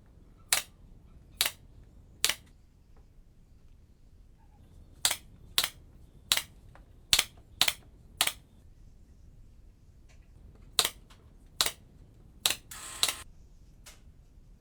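A series of about a dozen sharp clicks in uneven groups, with a short rasping noise about thirteen seconds in.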